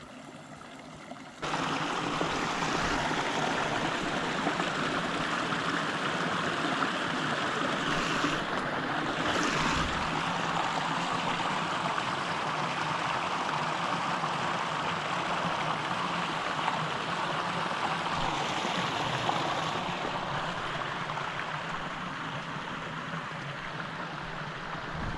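Steady rushing of a small mountain creek's flowing water, which gets suddenly louder about a second and a half in.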